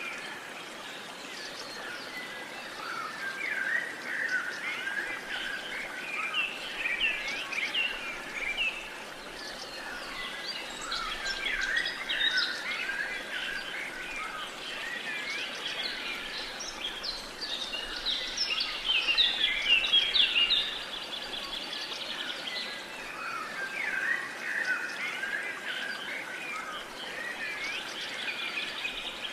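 Many birds chirping and singing at once, a dense chorus of overlapping short calls and trills over a steady background hiss.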